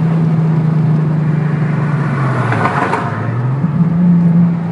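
Car engine droning steadily, heard from inside the cabin while driving at speed. Its pitch sinks a little after two seconds in, then jumps back up about three and a half seconds in.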